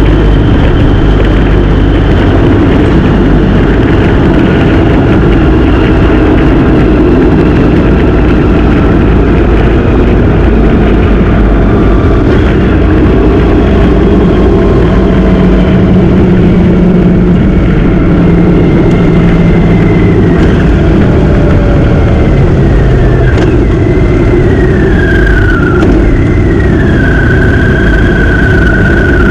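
Motorcycle engine running while riding, under a heavy rush of wind on the microphone. The engine note drops twice near the end, then holds steady.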